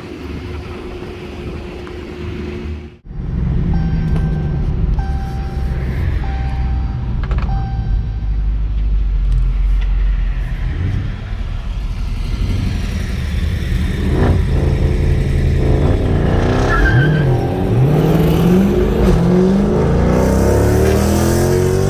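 Tuned cars running hard: a loud, steady engine drone. In the last few seconds the pitch climbs and drops again and again as the engines rev through their gears.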